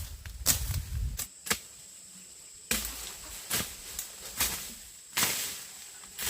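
A series of sharp, irregular knocks or chops, roughly one every half second to a second.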